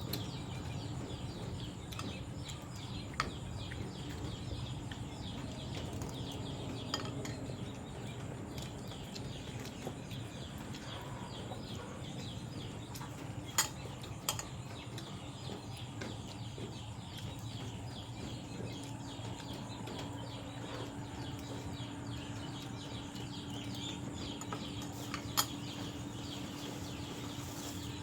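A few scattered clinks of a spoon or cutlery against dishes during a meal, over steady outdoor background with birds and insects. A low steady hum joins about two-thirds of the way in.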